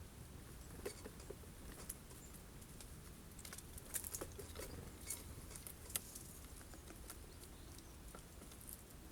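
Scattered sharp taps and scratches of birds pecking and moving about on a feeder stocked with sunflower seeds, at irregular intervals with a busier run in the middle.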